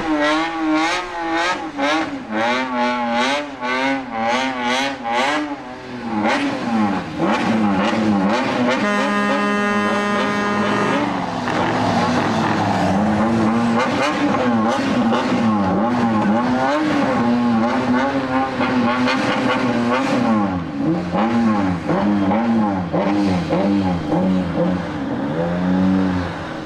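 Engine revved hard at a drifting show, its pitch swinging up and down again and again, in quick pulses for the first few seconds. There is a steady held tone for about two seconds around ten seconds in.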